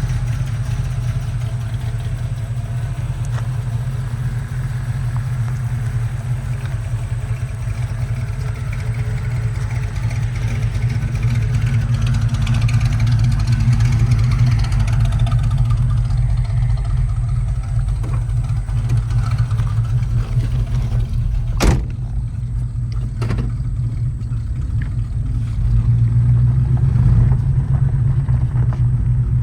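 Crate 350 V8 in a 1980 Chevrolet El Camino running steadily, with a sharp knock about two-thirds of the way in and a lighter one shortly after.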